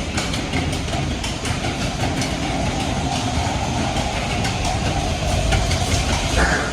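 Matterhorn Bobsleds sled running on its steel track, a steady rumble with scattered clicks and clacks from the wheels and track.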